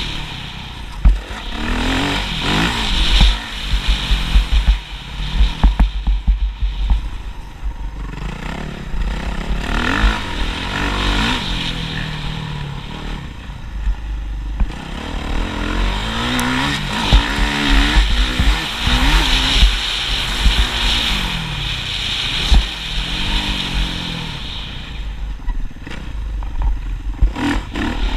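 Motocross motorcycle engine revving up and down again and again, its pitch rising and falling through gear changes and throttle blips, over heavy low buffeting on the microphone.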